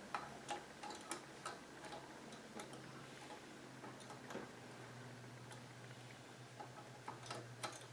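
Faint, irregularly spaced small metal clicks and taps as a nut is threaded and done up on an exhaust mounting bolt, over a low steady hum. The clicks come mostly in the first second, with a couple more near the end.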